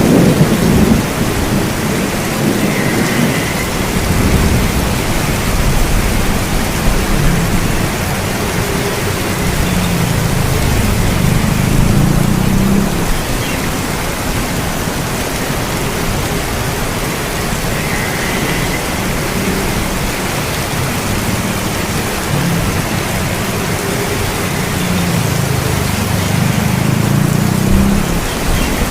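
Steady heavy rain with low thunder rolling in and out: a loud rumble near the start, a long roll through the middle, and another near the end.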